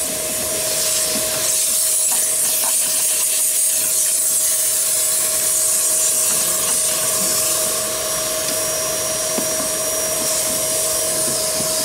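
Vacuum cleaner running steadily through a flexible crevice nozzle: a constant rushing hiss of air with a steady motor whine under it, and a few faint clicks.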